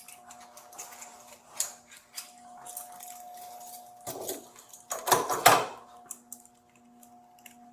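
Handcuffs being unlocked and taken off: scattered metal clicks and jangling, with a louder clatter of the cuffs about five seconds in. A steady hum runs underneath.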